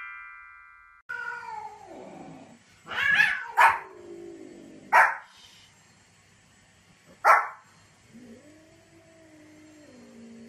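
A chiming jingle fades out, then a small white spitz-type dog barks sharply four times. Long, wavering cat meows come before the barks and after them.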